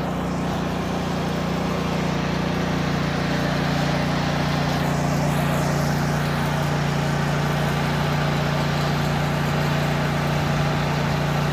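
An engine running steadily at a constant speed, an even hum that does not rise or fall.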